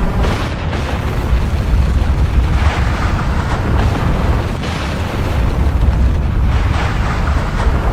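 Volcanic eruption: a continuous deep rumble with several surges of hissing, crackling noise, about every two seconds.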